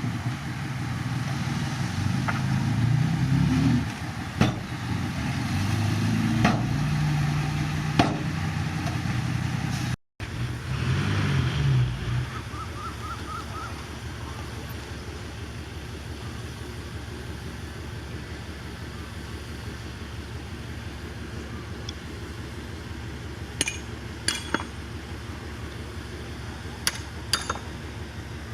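Heavy diesel earthmoving machine working under load, its engine pitch rising and falling, with a few sharp metallic clanks. After a sudden break about ten seconds in, a steadier, quieter engine hum with occasional clinks.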